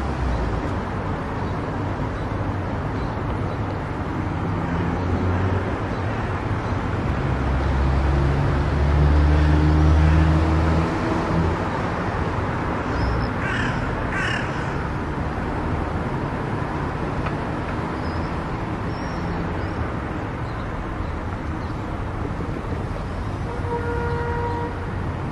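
Steady road and tyre noise from a car driving on an expressway, swelling into a heavier low rumble about a third of the way in. About halfway through come two short, harsh, crow-like calls, and a brief steady beep sounds near the end.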